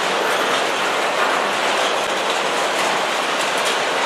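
Freight train flatcars rolling steadily past, their steel wheels rumbling and clattering over the rails, with a few sharp clicks near the end.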